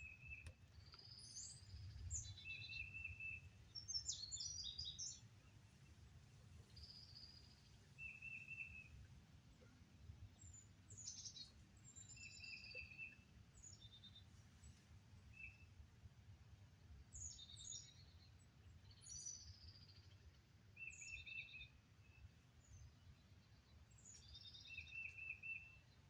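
Several wild birds calling and singing: a short trill repeats every few seconds, with higher, quicker chirps and notes from other birds in between, faint over a low rumble.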